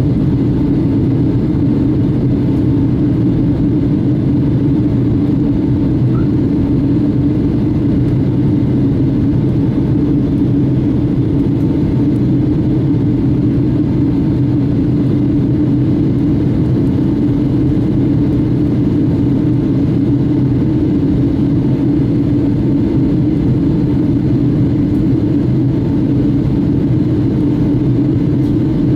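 Steady cabin drone of a Boeing 757-200 in flight, jet engines and airflow heard from a passenger seat. The deep hum holds even, without rising or falling.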